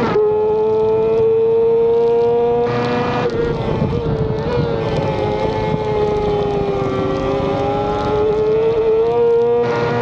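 Racing motorcycle engine held at high revs under throttle, with wind rushing over the onboard microphone. The pitch stays high, sags a little through the middle and climbs again near the end.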